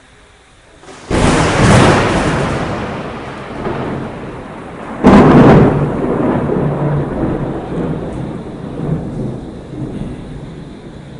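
Two close thunderclaps about four seconds apart, each a sudden loud crack that rolls off slowly into rumbling.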